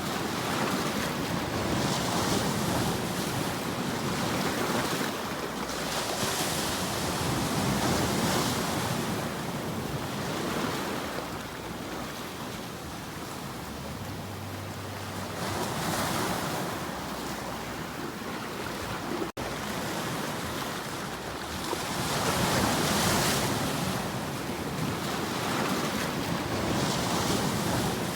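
Ocean waves washing ashore, a steady surf hiss that swells and falls back every several seconds. The sound cuts out for an instant about 19 seconds in.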